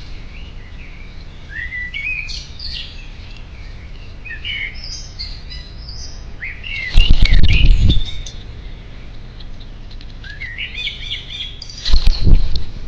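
A small garden songbird singing in short, quick warbled phrases, several times over. Twice, about seven seconds in and again near the end, a loud noisy burst with a low rumble comes over the song.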